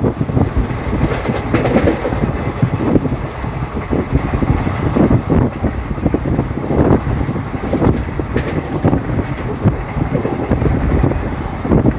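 Express passenger train running at speed, heard from on board: a steady rail rumble with irregular clattering knocks from the wheels, and wind buffeting the microphone.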